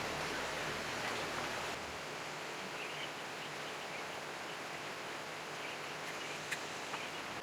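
Steady outdoor background noise with a few faint chirps and light clicks; a low hum underneath stops about two seconds in.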